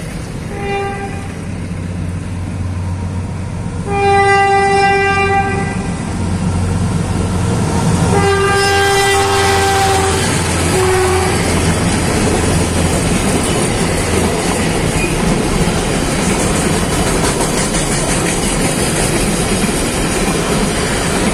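Diesel freight locomotive sounding its multi-tone horn as it approaches: a short toot, two long blasts with the second dropping in pitch as it passes, and a final short toot. Over the engine's drone, the container wagons then roll past with a steady rush of wheel noise and clatter.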